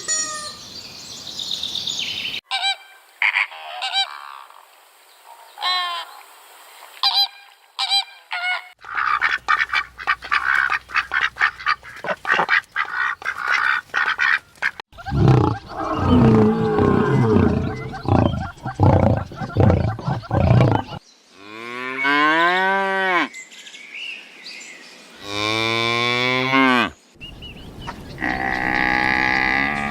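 A string of separate farm-animal calls cut one after another. First come short high calls, then a quick run of repeated honking calls, then several long, loud calls whose pitch slides down and up, like cattle lowing.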